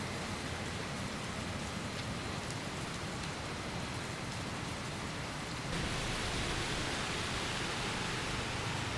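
Steady rain falling, a continuous hiss with the odd drop tick. It gets a little louder about two-thirds of the way through.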